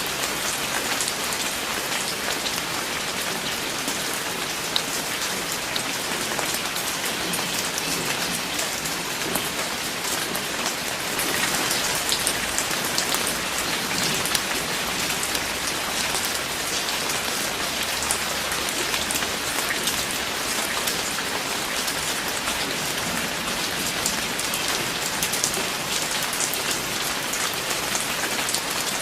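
Steady rain falling, a constant hiss peppered with many individual drops striking a surface. It swells a little about halfway through.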